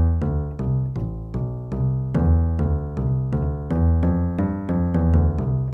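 Yamaha PSR-175 home keyboard playing a preset piano pattern: evenly repeated notes, about four to five a second, over a sustained bass line. The piano voice sounds thin; it is judged to hardly sound like a piano at all.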